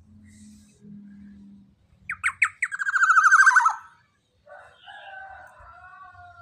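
Young black-naped oriole (kepodang emas) calling: three sharp notes run into a loud, fast rattling trill of about a second, followed by a harsher, drawn-out call that falls slightly in pitch.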